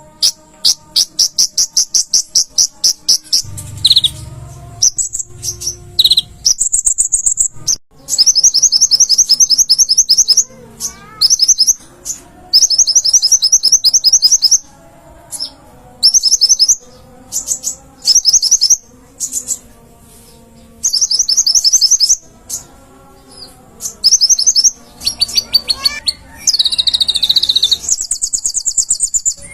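Brown-throated sunbird (kolibri ninja) singing: loud, high-pitched, rapid trills of fast repeated notes, in bursts of a second or two with short gaps between them.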